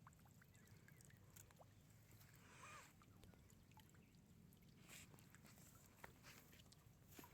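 Near silence: faint outdoor ambience with a low hum and a few scattered small clicks and ticks.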